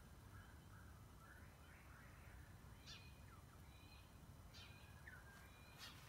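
Faint songbird calls in woodland ambience: a soft warbling phrase in the first couple of seconds, then a few short, sharp chirps, over a low background rumble.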